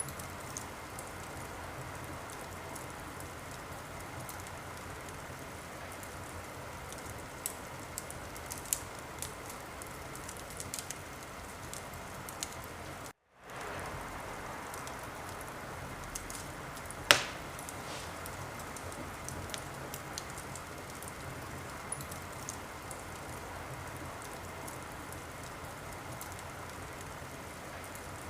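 Wood fire crackling in a fireplace: a steady hiss with scattered small pops, and one sharp, much louder pop a few seconds after the middle. The sound cuts out completely for a split second about halfway through.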